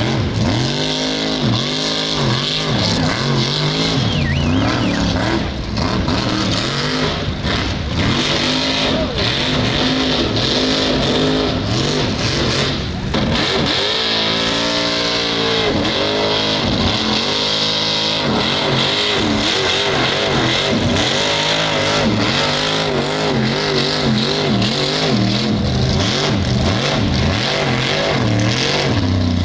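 Mud truck engine revving hard and repeatedly, its pitch climbing and dropping again and again over a steady hiss.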